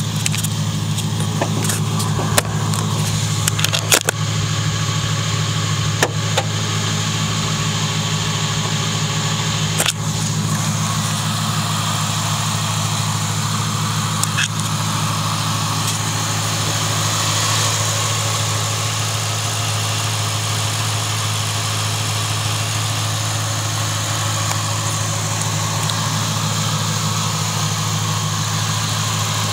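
The 4.6 L V8 of a 1996 Ford Thunderbird LX idling steadily, with a few sharp clicks and knocks during the first ten seconds.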